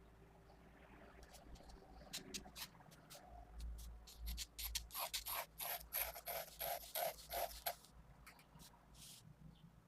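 Pentel GraphGear 500 mechanical pencil with 0.5 mm 2B lead sketching on paper. A few short, separate strokes come first, then about halfway through a run of quick back-and-forth strokes at about four a second, which stops just before the end.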